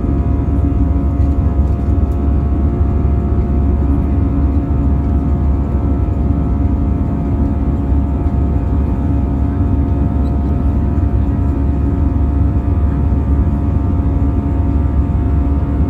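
Steady cabin noise inside an Airbus A320-214 in flight or on its take-off run: a loud, even low rumble of CFM56 jet engines and airflow, with several steady hums held above it.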